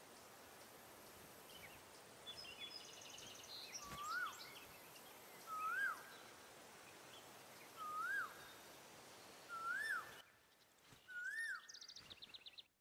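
Faint garden ambience of birdsong: one bird repeats a short whistled note that rises and then drops sharply, five times about one and a half to two seconds apart. Fainter high chirps from other birds sit over a steady background hiss.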